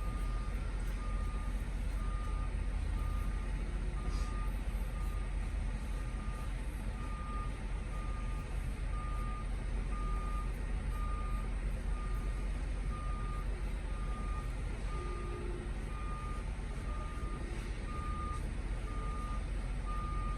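A truck's reversing alarm beeping steadily at about one beep a second, over a low, steady rumble of idling diesel engines.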